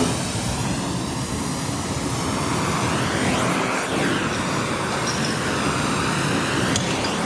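Gas heating torch flame hissing steadily while heating the steel scrap feet, to bend them back.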